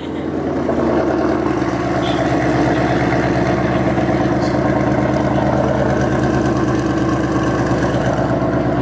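Ford Mustang's engine running steadily and loudly through an MBRP cat-back exhaust with the catalytic converters removed; the catless exhaust is why it sounds like that.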